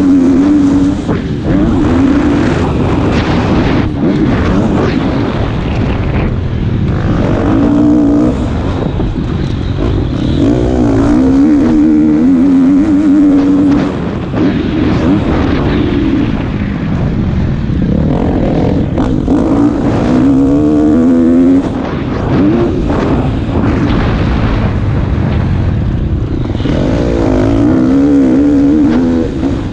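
KTM 250 SX-F motocross bike's single-cylinder four-stroke engine, ridden hard, its pitch climbing and falling over and over as the throttle is opened and shut, with a dense rushing noise behind it. The throttle drops off briefly a few times.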